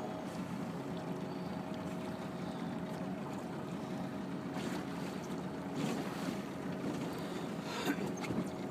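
Steady outdoor noise of moving river water and wind on the microphone, with a faint steady hum underneath. A few brief sharper noises come about five, six and eight seconds in.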